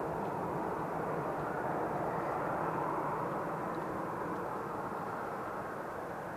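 Japan Airlines Airbus A350-941's Rolls-Royce Trent XWB jet engines running: a steady rush of engine noise that swells a little about three seconds in and then eases slightly.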